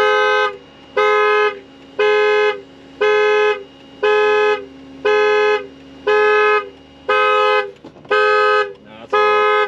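Abandoned vehicle's anti-theft alarm blowing its dual-tone horn in even blasts about once a second, set off by opening one of its doors.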